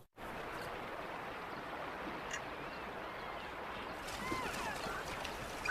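Steady rush of flowing water, with a few faint bird chirps about two seconds in and again near the end.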